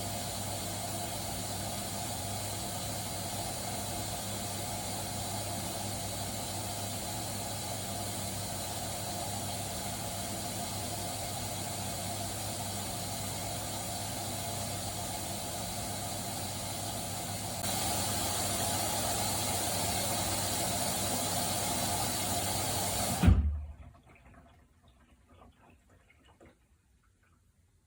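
Haier HW90-BP14636 front-loading washing machine (inverter motor, belt drive) running mid-cycle: a steady hum with a rushing of water. It gets louder about two-thirds of the way through, then stops abruptly with a thump, leaving near silence.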